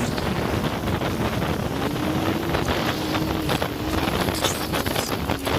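Jet ski running across the water, with heavy wind buffeting the microphone; from about two seconds in, the engine's steady whine comes through, wavering slightly in pitch.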